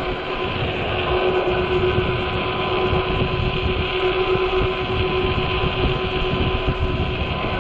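An Ecotric 48-volt fat-tire e-bike's hub motor whines at a steady pitch under heavy load, straining the battery. Under the whine runs a continuous rumble of fat tyres through snow and slush.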